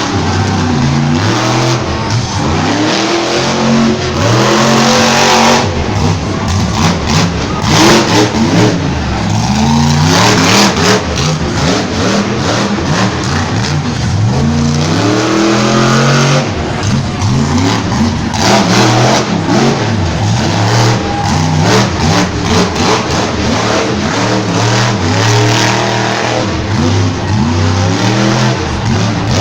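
Monster truck's big supercharged V8 revving hard over and over, its pitch climbing and dropping every couple of seconds, with sharp bangs and cracks scattered through the run.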